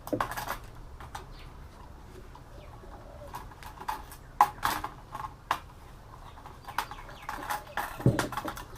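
A metal bracket being worked off a computer motherboard by hand: scattered small clicks, clinks and knocks of metal and circuit board.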